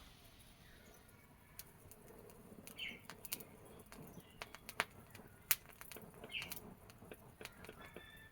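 Faint, sparse clicks and light taps, with two short chirps, one about three seconds in and one about six and a half seconds in.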